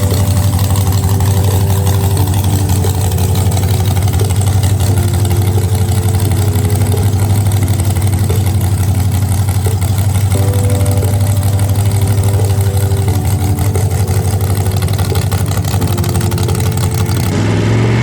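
A race engine idling steadily with a fast, even pulse, under background music. Near the end the engine note begins to rise.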